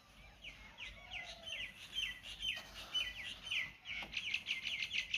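Small birds chirping: a series of short, high, repeated notes, spaced out at first and coming in a rapid run from about four seconds in.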